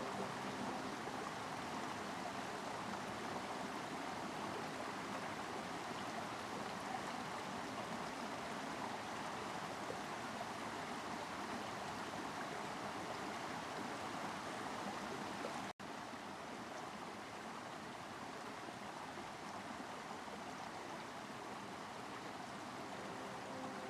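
Steady rushing of running water, like a stream. About two-thirds of the way through it cuts out for an instant and comes back slightly quieter.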